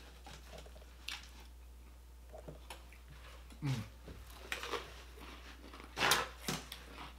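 Crunching and chewing of a breaded, deep-fried onion ring: scattered crisp crunches, the loudest about six seconds in.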